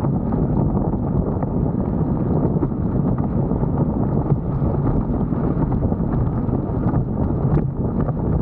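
Wind blowing across an action camera's microphone on a windsurf rig, a steady low rumbling rush with no break.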